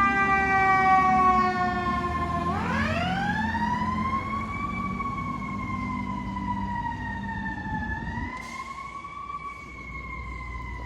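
Fire apparatus siren wailing with a truck engine rumbling underneath. The pitch slides slowly down, sweeps up about two and a half seconds in, eases down, then climbs again near the end.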